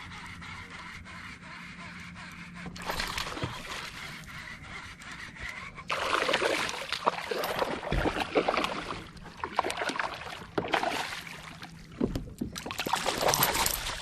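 Water splashing and sloshing against a boat, irregular and getting louder about six seconds in, most likely a hooked bass thrashing at the surface as it is brought in. A steady low hum runs underneath in the first few seconds.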